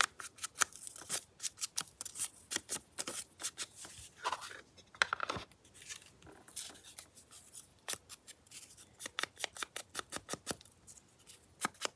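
Scissors cutting paper: a long series of quick, irregular snips and clicks.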